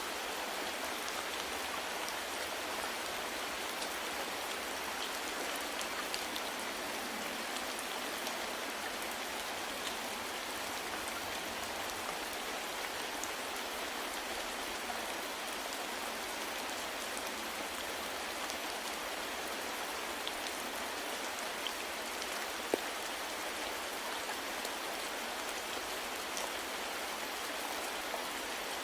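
Steady rain falling, an even hiss with scattered individual drops ticking on a surface, one slightly sharper drop tick near the end.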